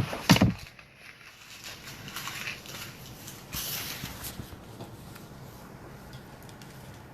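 Paper being handled and rustled on a table during cutting and coloring, with scattered small clicks and a brief louder knock just after the start.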